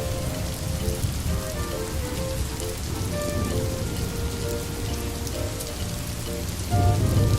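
Steady rain falling, an even hiss of drops, with soft music playing a slow melody of held notes over it.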